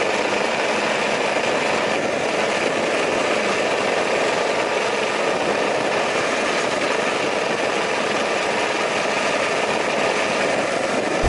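BMW F850GS parallel-twin engine running steadily, heard close up from low on the bike, thin in bass. The owner is listening for a tappet-like clattering from the engine that has been bothering him.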